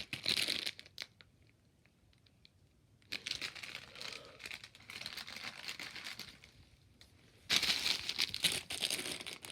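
Packaging crinkling as it is handled: a moment of crinkling at the start, a lull of about two seconds, then steady crinkling that turns louder near the end.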